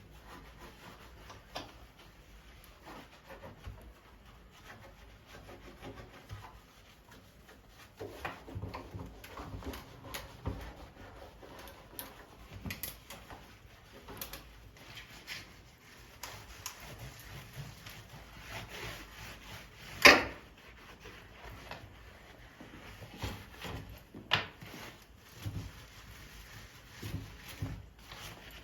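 Scrubbing and rubbing on wood, with scattered small knocks and one sharp, loud knock about twenty seconds in.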